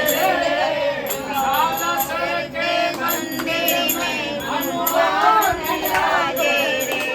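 Voices singing a Hindu devotional bhajan together as kirtan, accompanied by jingling percussion that keeps time.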